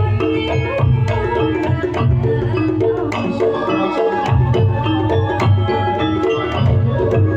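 Campursari ensemble playing a langgam: Javanese kendang hand drums beating a busy rhythm over sustained pitched melody instruments.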